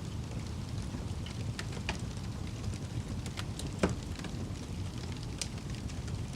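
Wood fire crackling in a fireplace: a steady low rumble of flames with scattered sharp pops, the loudest a little under four seconds in.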